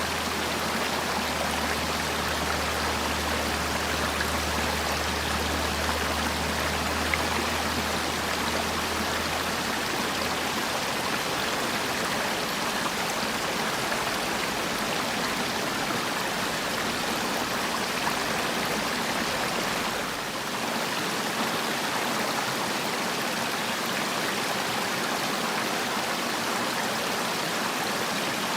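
Mountain stream rushing steadily over rocks, a continuous even water noise. A low hum sits under it for the first ten seconds or so, and the level dips briefly about twenty seconds in.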